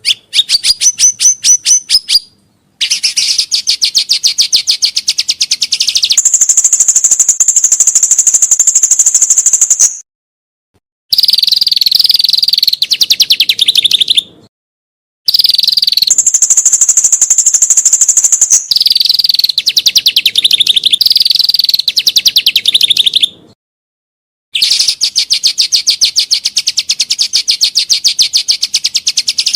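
Songbird song used as training material for captive songbirds: long bouts of very rapid, machine-gun-like repeated notes that shift between a higher and a lower pitch, broken by four brief, abrupt silences.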